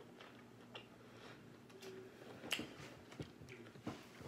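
Faint chewing of king crab meat, with a few soft short clicks of mouth and hands.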